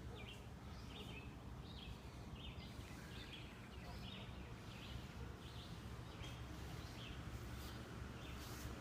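A bird chirping over and over, two to three short high chirps a second, thinning out near the end, over a steady low rumble.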